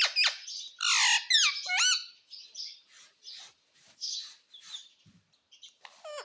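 Indian ringneck parakeet squawking and chattering: a run of loud gliding calls in the first two seconds, then softer short chirps and chatter.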